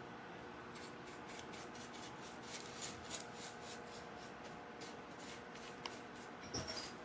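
Quick, repeated scratchy brushing strokes, about four to five a second for several seconds, then a short knock near the end.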